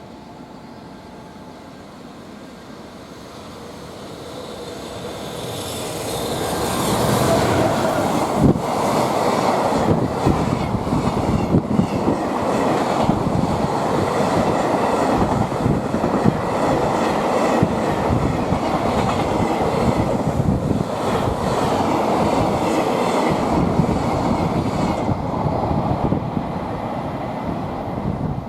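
A freight train approaching and passing close by, the wheels clattering over rail joints in a long run of rhythmic knocks. It cuts off abruptly at the end.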